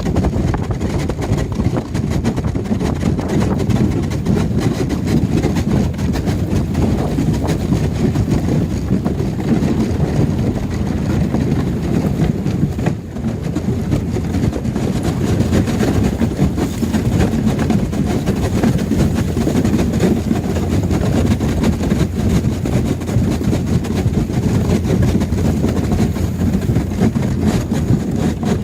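Fishing boat's engine running as the boat breaks its way through lake ice, a steady low rumble with a brief dip about thirteen seconds in.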